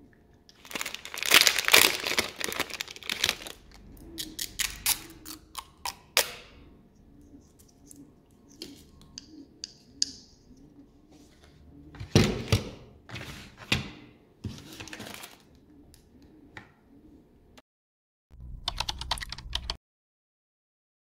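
Stationery and packaging being handled on a desk: irregular bouts of rustling with quick clicks and taps, loudest in the first few seconds and again about halfway through, with a short burst near the end.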